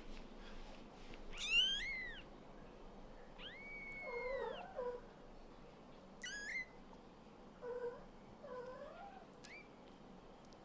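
Young Scottish Fold–British Shorthair mix kittens mewing: four high-pitched, gliding mews, the first the loudest about a second and a half in, with a few shorter, lower calls between them.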